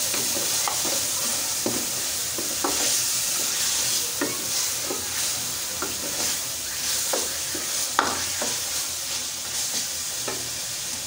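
Tomatoes, onions and ginger-garlic paste sizzling in oil in a metal pot, stirred with a wooden spatula that scrapes and taps against the pot now and then.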